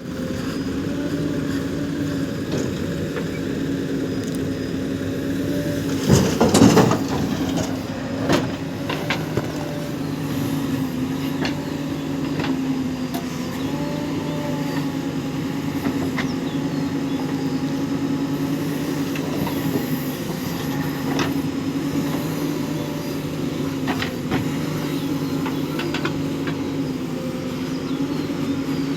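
Diesel engine of a JCB 3DX backhoe loader running steadily under load, with a loud clattering burst about six seconds in and a few sharp clanks later.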